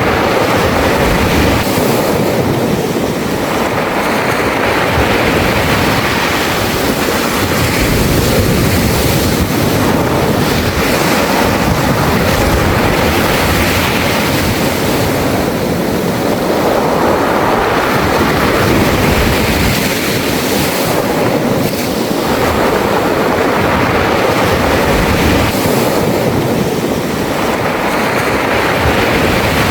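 Sea waves washing up a beach of smooth round pebbles, a continuous loud surf that swells and eases every several seconds, with the rattle of pebbles rolled by the water.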